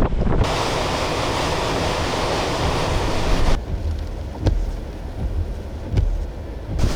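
Gale-force blizzard wind buffeting the microphone with a low rumble. A dense rushing noise fills the first few seconds and cuts off abruptly, followed by a quieter stretch with a few sharp clicks.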